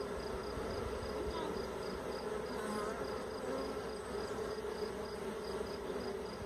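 Swarm of honey bees buzzing, a steady hum of many bees flying in and landing at a hive box as the swarm moves in.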